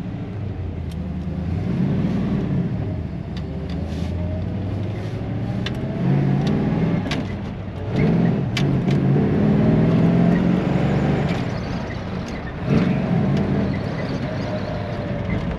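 1957 Chevrolet Bel Air under way, heard from inside the car: the engine's pitch climbs through the gears of its four-speed manual, dipping at a couple of shifts, about 8 and 12.5 seconds in. Short high squeaks come now and then, a squeak of unknown cause that the driver hopes lubrication will cure.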